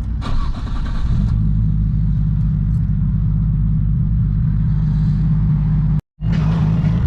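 Car engine running with a steady low tone that steps up slightly in pitch about a second in. The sound cuts out for a moment about six seconds in, then the engine carries on.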